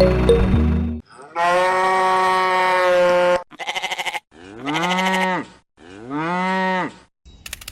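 Cow mooing several times: one long held moo, a short stuttering call, then two shorter moos that rise and fall in pitch. Music stops just before the first moo.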